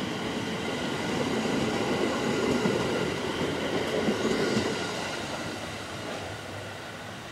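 JR 701 series electric local train pulling out of a station and running past, its wheels rumbling on the rails over a steady high whine. The sound is loudest about four and a half seconds in, then fades as the last car draws away.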